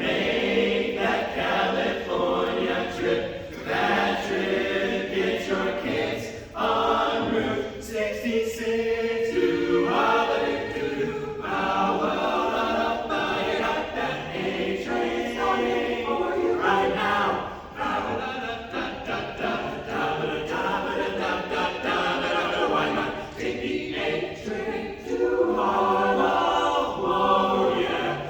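A cappella choir singing a jazz arrangement in close harmony.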